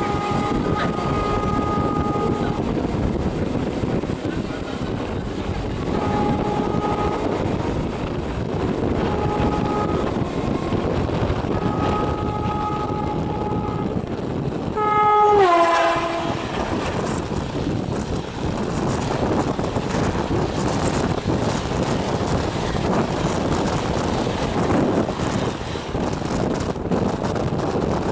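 WAP-5 electric locomotive horn sounding in several short, steady two-note blasts. At about fifteen seconds comes a louder blast that drops sharply in pitch as the locomotive passes. Underneath, the rumble and wheel clatter of the passing LHB express train runs on.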